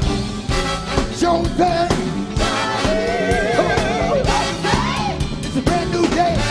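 Live funk band music: a full band plays, with a wavering lead melody line over it.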